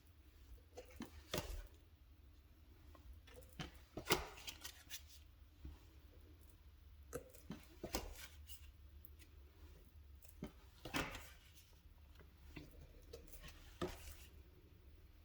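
Oracle cards being handled and flipped one by one: card stock sliding and tapping against the deck in short, crisp sounds at irregular intervals, louder ones every few seconds, with faint rustling between.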